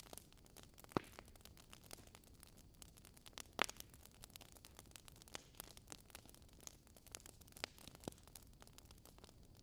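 Wood fire crackling softly: scattered sharp pops and snaps over a faint hiss, with louder pops about a second in and at about three and a half seconds.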